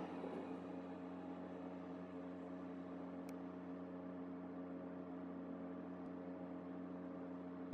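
Faint steady hum of a car's engine idling, heard from inside the cabin while it waits stationary at a red light, with a faint click about three seconds in.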